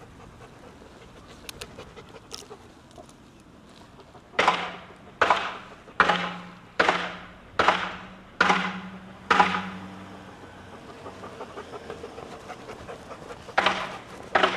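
A German Shepherd dog panting heavily, close by. After a few quieter seconds it breaks into a run of seven loud, evenly spaced pants, then two more near the end.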